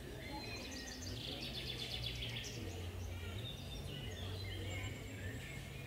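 Small birds chirping, with a quick trill of repeated notes about a second in and scattered chirps after, over a low steady hum.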